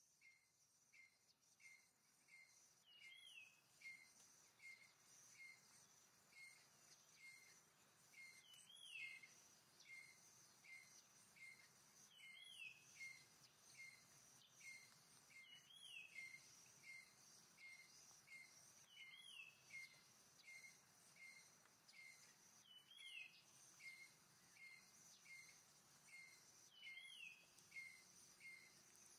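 Faint forest ambience: a bird repeats short high chirps about twice a second, with a longer sliding call every three to four seconds, over a steady high insect drone.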